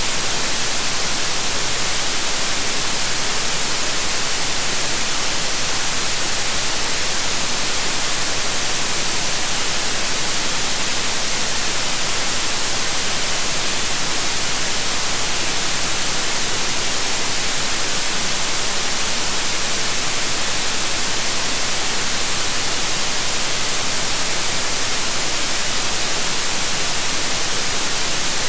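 Steady electronically generated white noise, an even hiss with most of its energy in the upper treble, unchanging throughout.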